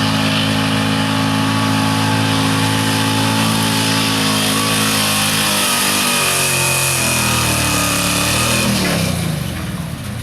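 Truck engine running hard at high revs under load, pulling a weight sled. It holds steady for about five seconds, then the revs fall away over the next few seconds and it eases off near the end.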